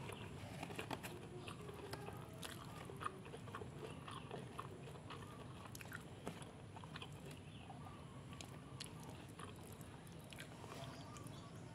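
Close-up eating sounds: a mouthful of sego pecel rice being chewed, with wet mouth clicks and small crunches scattered irregularly throughout. A faint steady low hum lies underneath.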